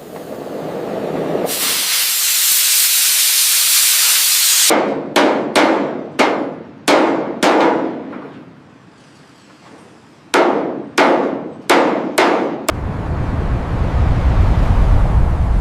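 A loud hiss like a torch or steam jet, then hammer blows on steel plate: about six quick ringing strikes, a pause of a few seconds, then about six more. A low steady rumble comes in near the end.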